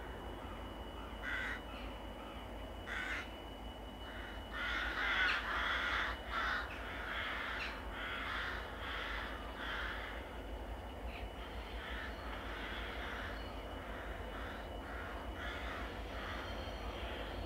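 Crows cawing: a series of short, harsh caws, loudest and most crowded together about five seconds in, over a steady low rumble.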